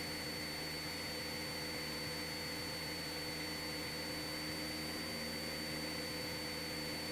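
Cessna 172SP in cruise flight, its four-cylinder Lycoming engine and airflow heard as a steady hiss and hum with a thin, steady high-pitched whine. Power is held constant, with no change in pitch.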